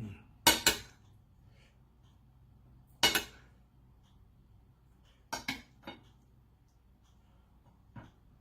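Eating utensils clinking against a dish: about seven sharp, short knocks in scattered groups, with two close together near the start, one about three seconds in, a quick cluster past five seconds and a last, fainter one near the end.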